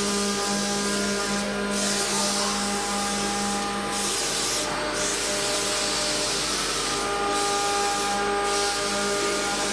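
CNC router spindle cutting wood: a steady rasping hiss over several held tones, with the hiss briefly dropping out a few times.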